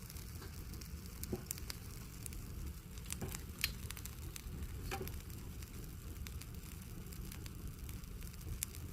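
Campfire of chili pepper plants burning, crackling with scattered sharp pops over a steady low rumble of the flames; the loudest pop comes about three and a half seconds in.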